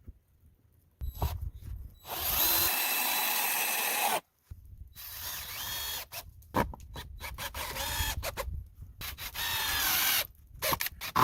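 Power drill running into wood in several long bursts with short stops between, its motor whine rising as it speeds up.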